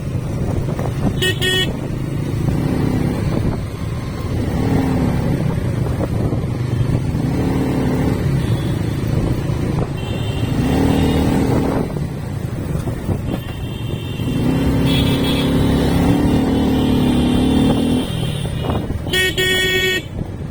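Motorcycle engines running on the road, their pitch rising and falling as they rev. A vehicle horn toots briefly about a second in and again near the end.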